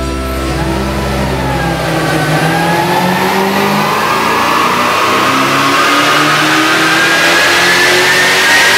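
Supercharged 5.0-litre V8 of a Ford FPV GT 335 on a chassis dyno during a power run: from about two seconds in, its pitch climbs steadily as it pulls up through the revs, with a high whine rising along with it.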